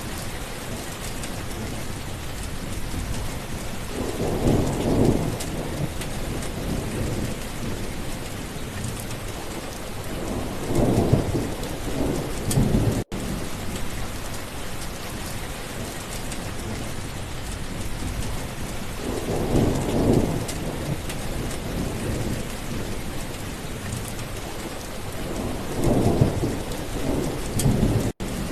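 Steady heavy rain with rolls of thunder rumbling up several times, each lasting a second or two. The sound cuts out for an instant twice, about halfway through and near the end.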